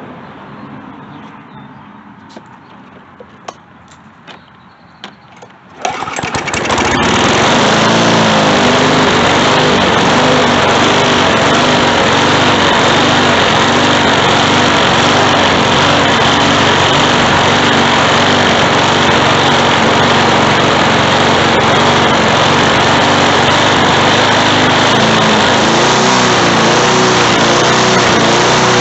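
A few faint clicks and handling noises, then about six seconds in a Briggs & Stratton lawn mower engine starts and catches at once. It then runs loud and steady.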